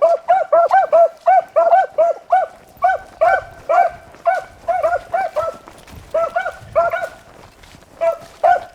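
Beagles baying on a rabbit's track: quick, repeated chop barks, two or three a second and now and then overlapping, with a short lull about two-thirds of the way through. It is the hunting cry of hounds running a rabbit by scent.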